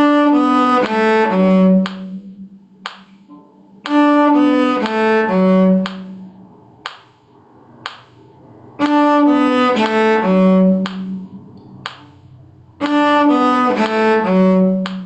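A bowed string instrument plays the four-note phrase D, B, A, F sharp, stepping down and ending on a longer-held low F sharp. The phrase is played four times, with short gaps between.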